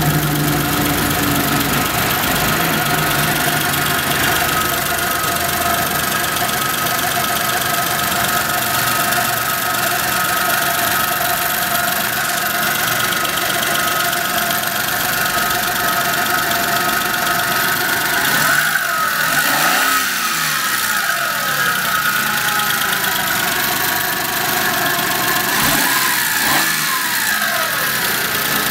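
Daewoo Matiz engine idling steadily, its pitch briefly rising and falling twice, about two-thirds of the way in and again near the end.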